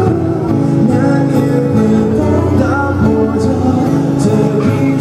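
Live band music with a strummed acoustic guitar over sustained chords, playing on steadily.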